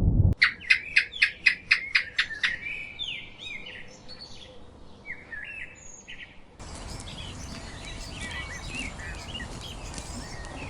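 Bird song: a quick run of about eight repeated high notes, about four a second, followed by varied phrases. About two-thirds of the way through it gives way to several birds calling together over a steady background hiss.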